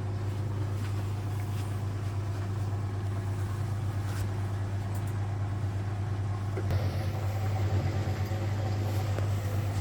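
Frigidaire Super Deluxe Automatic 50 front-loading washing machine draining, its drain pump running with a steady hum; the sound turns rougher about seven seconds in.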